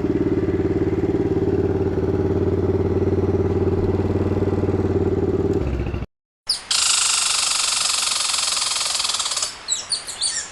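Pit bike's single-cylinder engine held at high, steady revs during a burnout for about six seconds, then cutting off abruptly. After a brief silence comes a steady hissing noise, and near the end birds chirp.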